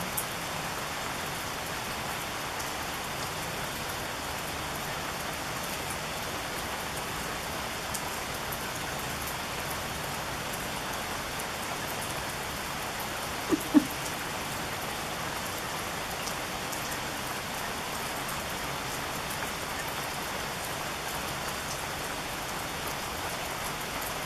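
Steady rain falling, with a pattering of drops throughout. About halfway through there is a brief, sharp double knock.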